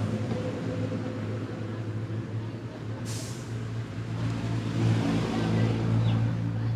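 Steady low engine hum, with a short hiss about three seconds in.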